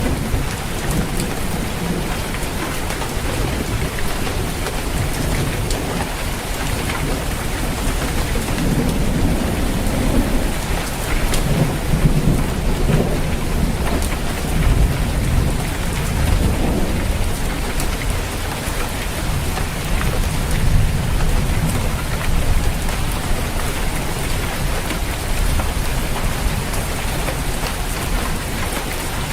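Steady heavy rain drumming on a roof, with low rolling thunder that swells and fades through the middle.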